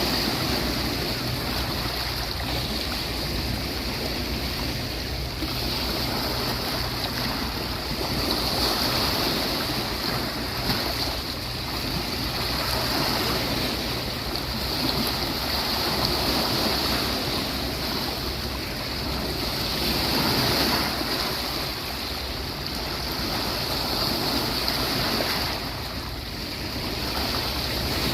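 Sea waves washing onto a beach, the surf swelling and easing every few seconds over a steady high hiss.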